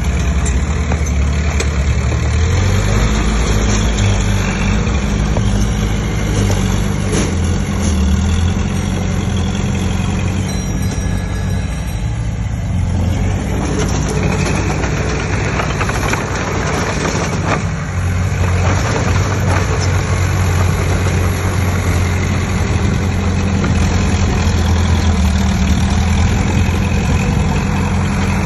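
Heavy diesel engine of earth-moving machinery running steadily at work, its low note shifting in pitch now and then.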